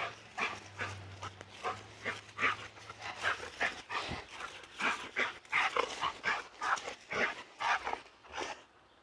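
A dog vocalizing in a rapid, irregular run of short sounds, several a second, which fade out near the end.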